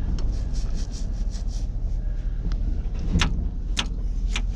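A vehicle being driven, heard from inside: a steady low engine and road rumble, with a few sharp clicks in the last second and a half.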